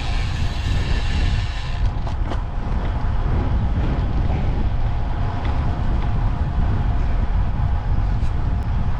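Steady, loud low wind rumble on the microphone of a moving road bike.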